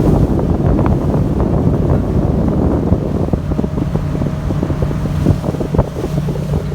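Wind buffeting the microphone over the steady low rumble of a car ferry's engine.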